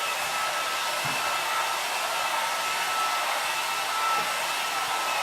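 Hand-held hair dryer running steadily: a rush of blown air with a thin, steady whine.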